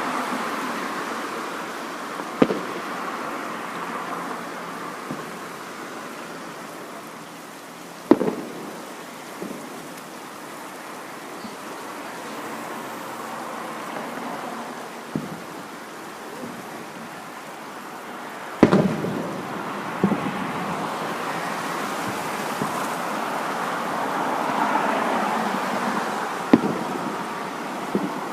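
Fireworks shells bursting overhead: about seven sharp bangs at irregular intervals a few seconds apart, each trailing off in a rumbling echo, over a steady rushing background.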